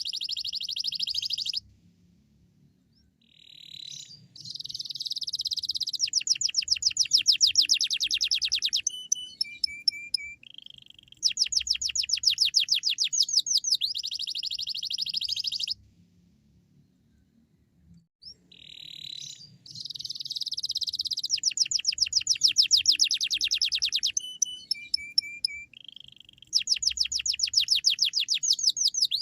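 Domestic canary singing in long phrases of rapid trills and chirps, with two short pauses between phrases.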